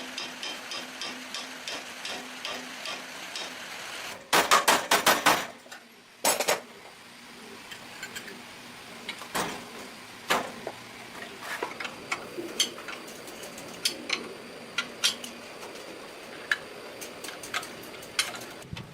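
Metal hand tools tapping and clicking on machine parts during reassembly, with a quick run of about eight sharp strikes a little after four seconds in, another near six seconds, then scattered light taps.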